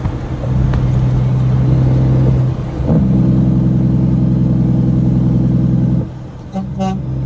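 Kenworth W900B dump truck's air horn blown in greeting: one long blast, then a longer blast of several steady pitches together, then a couple of short toots near the end, over the diesel engine running underneath.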